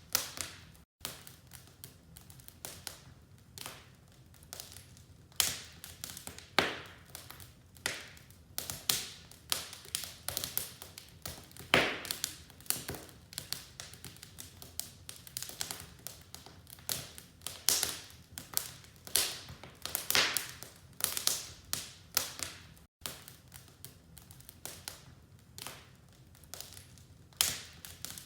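Wood fire burning in a fireplace, crackling with irregular sharp pops and snaps, a few louder than the rest, the loudest about twelve seconds in.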